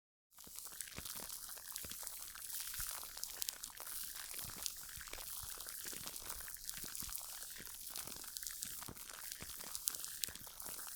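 Close-miked crackling and crinkling from hands working skincare products, a steady run of small clicks with a few sharper pops. The sound drops out completely for a moment right at the start.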